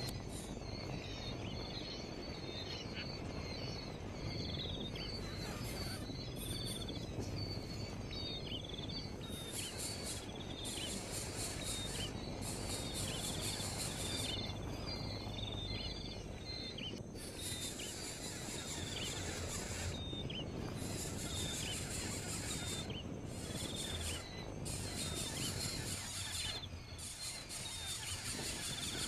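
Outdoor ambience: a bird chirping in short notes about once a second over insects buzzing high and shrill in stretches that start and stop, with a steady low background rumble.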